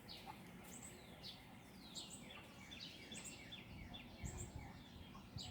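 Faint birds chirping: many short, high calls, each sweeping downward, repeating in quick runs, with a soft low thump about four seconds in.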